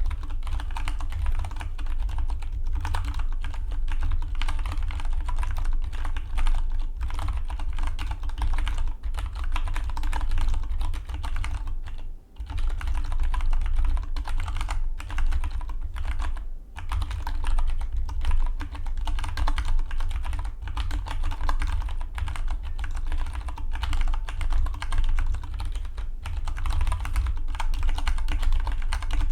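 Fast, continuous typing on a Dygma Defy split mechanical keyboard, the keystrokes clicking in a dense stream, with two short pauses about twelve and sixteen seconds in.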